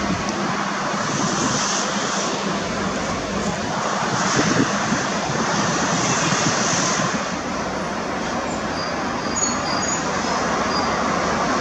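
Jet airliner landing at an airport, its engines making a steady rushing noise.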